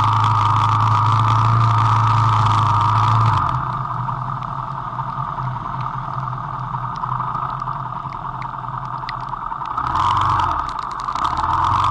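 Vento Rocketman motorcycle's engine running under way: a steady drone whose revs fall off about three and a half seconds in, then pick up again near the end.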